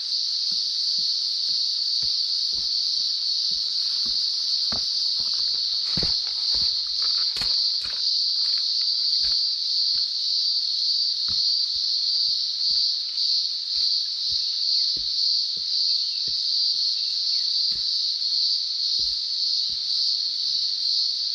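A dense chorus of cicadas in summer heat, a loud, steady high-pitched buzz that pulses slightly, with occasional soft thumps.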